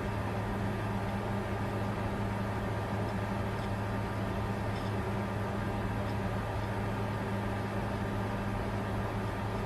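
Bitcoin mining computer running steadily under load: an even fan whir with a constant low hum.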